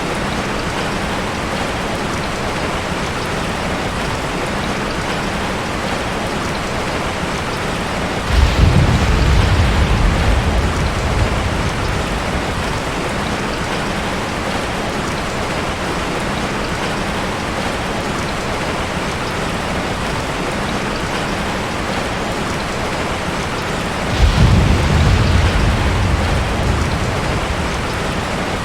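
Steady rain, with two low rolls of thunder: one about eight seconds in and another about twenty-four seconds in, each fading over a few seconds.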